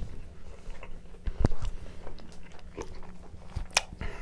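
Close-miked chewing of a mouthful of pizza, with wet mouth clicks and smacks and a low thump about a second and a half in. A short crinkle of a paper napkin comes near the end.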